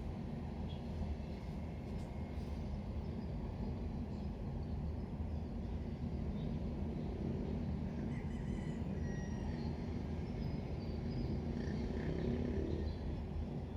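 Steady low background rumble with faint, scattered high chirps like distant birds.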